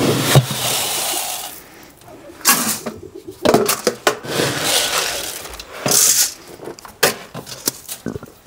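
Strong wind buffeting the microphone in uneven gusts, with a few sharp knocks and rattles.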